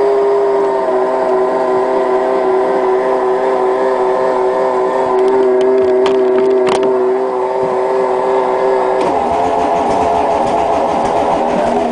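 Peugeot 306 1.9 turbo diesel being cranked on a cold start: a steady starter whine for about nine seconds, then the sound turns rougher and pulsing as the hard-starting engine begins to catch.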